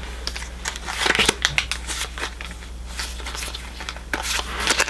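Pokémon trading cards handled and flipped through by hand: a run of short, crisp flicks and rustles over a steady low hum.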